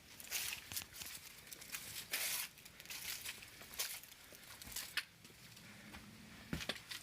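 Footsteps crunching through dry fallen leaves on a forest trail: irregular crisp crunches every half second to a second.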